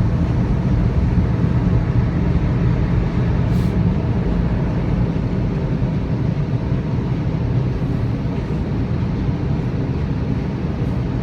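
Automatic drive-through car wash machinery working over the car, heard from inside the closed cabin: a steady rumble.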